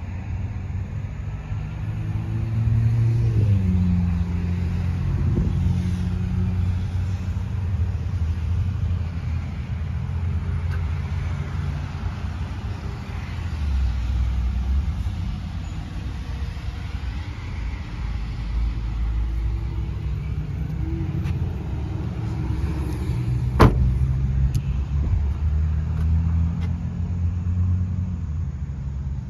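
Low rumble of motor-vehicle engines, their pitch rising and falling over time, with a single sharp click about two-thirds of the way through.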